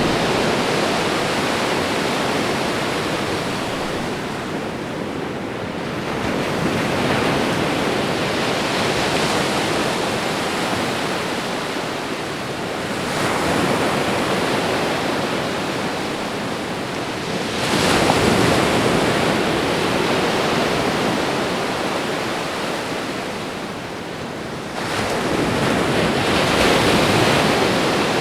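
Ocean waves breaking and washing up on a shore, a steady wash of surf that swells with each new wave about every five to seven seconds.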